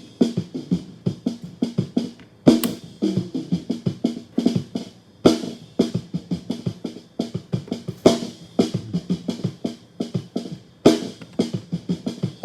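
Multitrack drum kit recording playing back: a busy pattern of quick snare and drum strokes, with a heavy accented hit about every three seconds.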